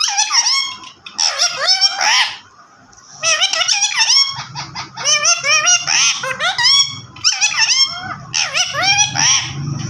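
Parrot calling in rapid bursts of high, squeaky chatter whose pitch bends up and down, with a short pause about two and a half seconds in.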